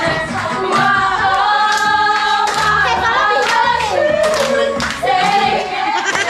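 A song with singing voices, held and gliding sung notes over a steady beat.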